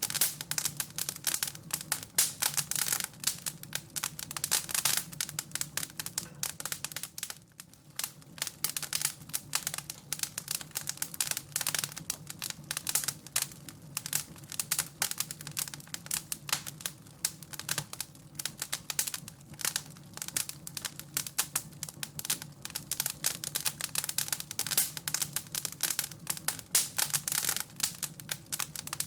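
Wood fire crackling and popping in a fireplace, a dense irregular run of sharp snaps over a low steady hum, with a brief lull about seven seconds in.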